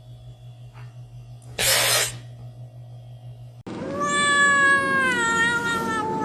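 A brief burst of hiss-like noise about a second and a half in, then a domestic cat's single long, drawn-out meow that starts abruptly about two-thirds of the way through and slowly falls in pitch.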